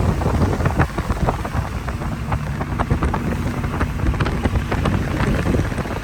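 Heavy rain in a thunderstorm: raindrops ticking and pattering thickly over a steady low rumble of wind on the microphone.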